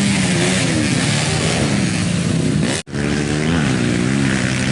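Racing motorcycle engines running hard at a circuit, their pitch rising and falling as they rev and pass. The sound drops out for an instant nearly three seconds in.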